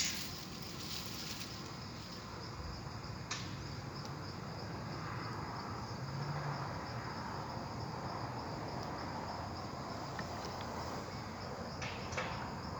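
Steady chorus of insects, a constant high-pitched buzz, with a couple of sharp clicks about three seconds in and near the end.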